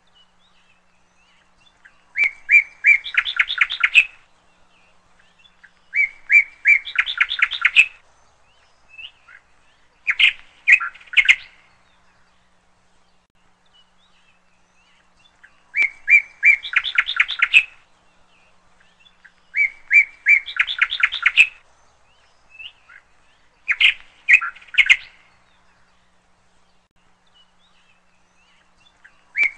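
A small songbird singing. It repeats short phrases about six times, each a few separate notes running into a quick trill and lasting a second or two, with pauses of a few seconds between.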